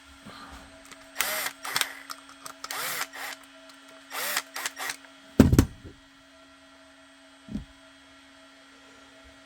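Several short bursts of a power driver tightening the screws of a holster's hardware, followed about halfway through by a loud thump and, a couple of seconds later, a smaller knock.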